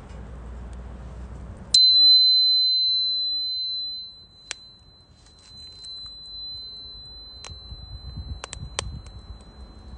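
A small bell or chime is struck once, about two seconds in, and rings one clear high tone that fades slowly over several seconds. Under it, a wood fire crackles and gives a few sharp pops.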